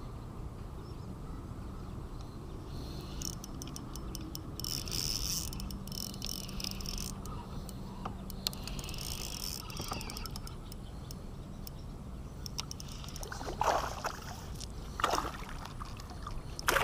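Clicking and rattling of fishing gear being handled in a kayak, in two runs of quick clicks, then a few louder knocks near the end, over a low steady background hum.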